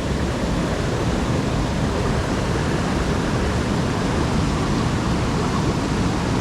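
Steady rushing roar of moving water, an even noise with no breaks or distinct events.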